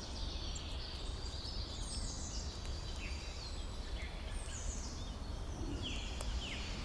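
Ambient background with a low steady rumble and faint, scattered high bird chirps, each stepping down in pitch.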